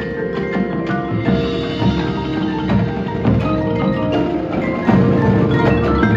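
High school marching band playing its field show, with the front ensemble's mallet percussion (marimba, bells) and other percussion prominent among sustained notes; it swells louder near the end.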